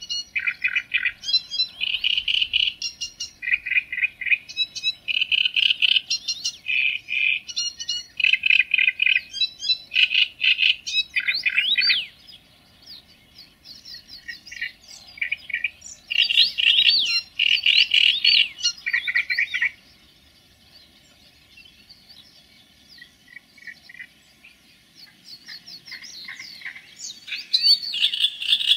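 A songbird singing loud phrases of rapidly repeated notes and quick whistled glides. It falls quiet for a few seconds about twelve seconds in, sings again, then gives only faint calls until near the end, when the song resumes.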